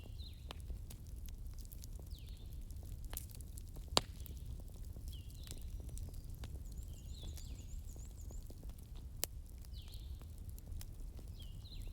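Wood fire crackling: a steady low rumble with scattered pops and snaps, the sharpest about four seconds in and again near nine seconds. Faint high chirps recur every few seconds behind it.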